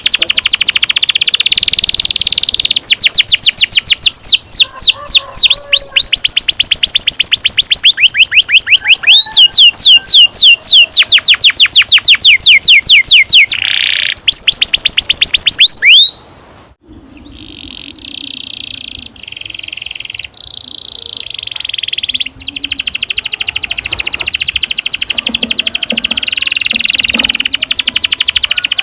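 Domestic canary singing long rolling trills: very fast runs of sharp downward-sweeping high notes, one after another. About 16 seconds in the song breaks off suddenly for a second or two, then resumes with further buzzy trills and rolls.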